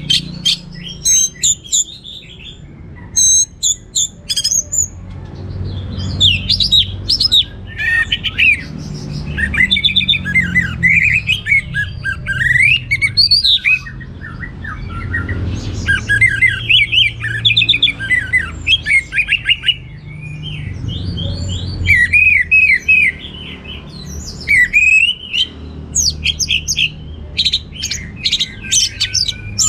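Orange-headed thrush singing a loud, varied song of rapid chirps, whistles and trills in bursts with short pauses, over a steady low hum.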